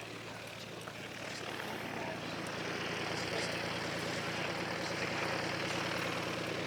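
Propeller airplane's piston engine running steadily, growing louder about two seconds in and then holding.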